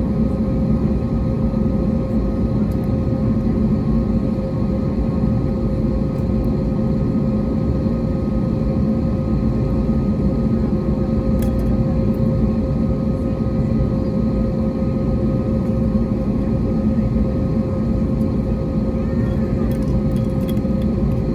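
Airliner cabin noise aboard an Airbus A321neo: the jet engines and airflow make a steady drone with a few held tones over a low rumble.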